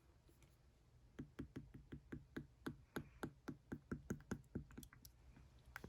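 A quick run of light, dull taps, about four or five a second, that starts about a second in and stops a little before the end.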